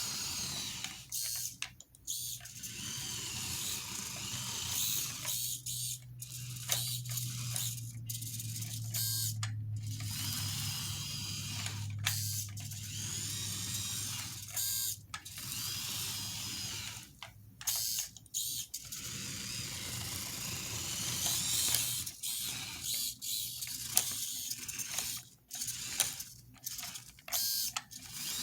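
Small electric drive motor and gears of a 1:32 scale RC John Deere 7290R model tractor whining as it drives, stopping and starting many times in short runs.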